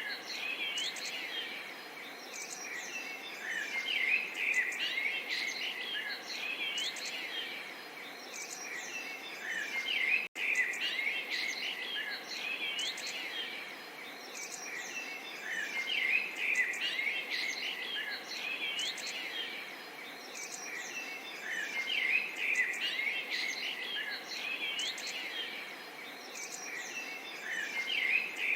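Many small songbirds chirping and twittering over a soft, steady babble of water. The sound cuts out for an instant about ten seconds in.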